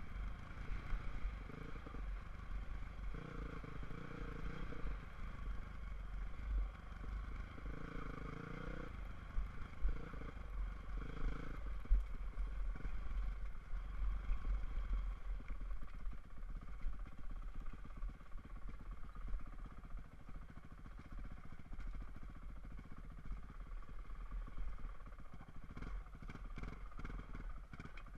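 Dirt bike engine running while riding, its note swelling and easing several times in the first twelve seconds or so, over a constant low rumble.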